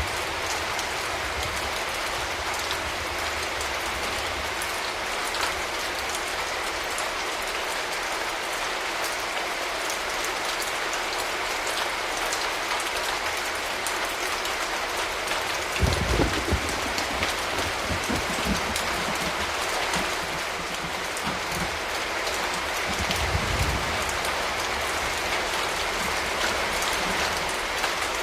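Steady rain falling, an even hiss throughout, with two short low rumbles: one a little past halfway and one near the end.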